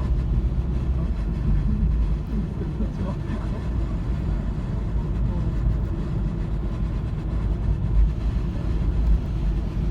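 Steady low rumble of a car driving along a snowy road.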